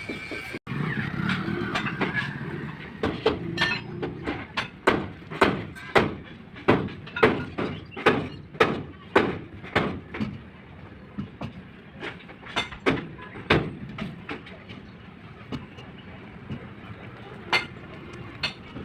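A run of sharp taps or knocks, about two a second, that thins out and stops about fourteen seconds in, with one more near the end, over a low steady background noise.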